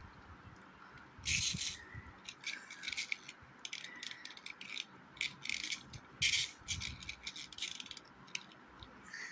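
Plastic toy train set pieces being handled, clicking and rattling in irregular short clicks.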